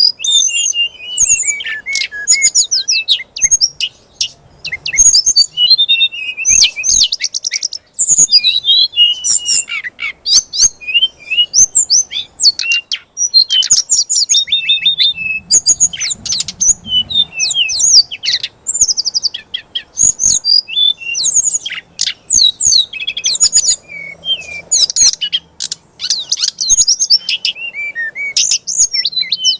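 A songbird singing a long, loud, unbroken run of quick chirps, whistles and sweeping trills: a fighter-style bird song of the kind played to provoke oriental magpie-robins into singing.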